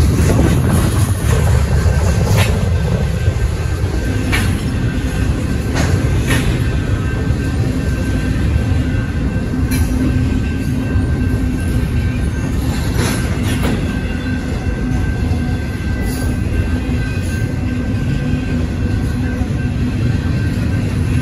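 Double-stack intermodal freight cars rolling past a grade crossing: a loud steady rumble with scattered clanks as wheels cross the rail joints, and a steady high tone over it.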